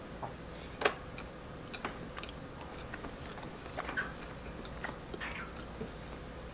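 Faint chewing and mouth smacks from eating a soft red bean pancake, with scattered small clicks, one a little louder about a second in. A faint steady hum runs underneath.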